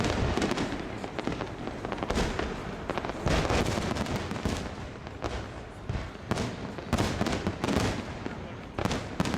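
Fireworks display: shells bursting in a string of sharp bangs, some spaced a second or two apart and others in quick clusters, with crackling and rumble between them.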